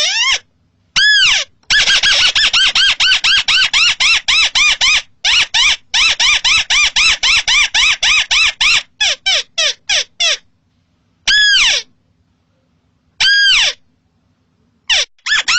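Crake (burung tikusan) calling: rapid runs of short, arched notes, about six to eight a second, broken by pauses. Near the end come two longer single notes.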